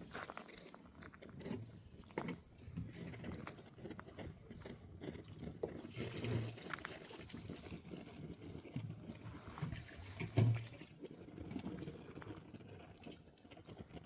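Irregular steps on stony ground, a string of short knocks and clicks, with a louder thump about ten and a half seconds in.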